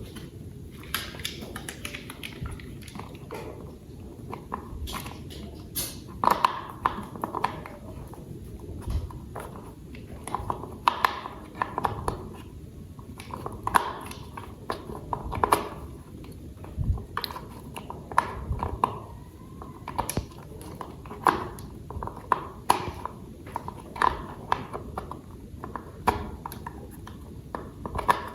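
Plastic toy pieces being handled and fitted together: irregular clicks, taps and knocks, a few every second, over a steady low background hiss.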